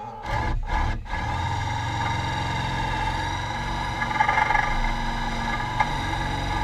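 Engine idling steadily after two brief rushing sounds in the first second.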